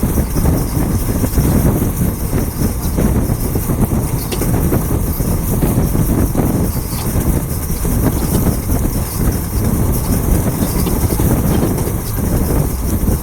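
Express train running past on the track, a steady, loud rumble of wheels and coaches with a hiss over it.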